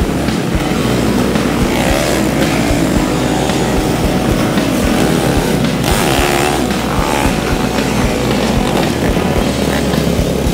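Enduro motorcycle engine running under way amid a loud rushing noise, its pitch rising and falling with the throttle about two seconds in and again around six seconds.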